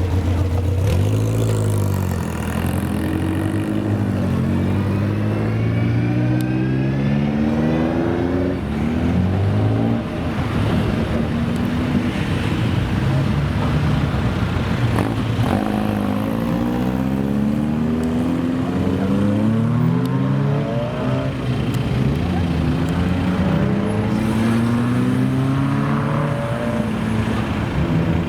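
Car engine accelerating hard through the gears: its note climbs steadily in pitch, drops at each gear change, then climbs again, several times over.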